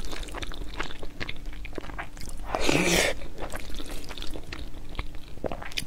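Close-miked chewing of a mouthful of tomato-and-egg fried rice, with many small wet mouth clicks. A louder airy rush comes about halfway through.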